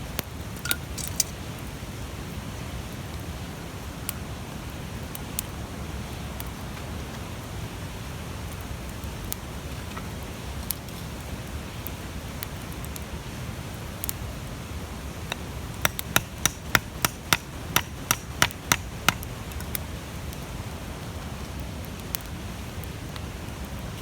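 Large wood fire burning with a steady low rush and scattered crackles, then a quick run of about a dozen sharp pops about two-thirds of the way through.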